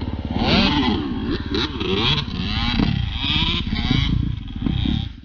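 Dirt bike engine revving up and down repeatedly as it is ridden, then cutting off suddenly at the end.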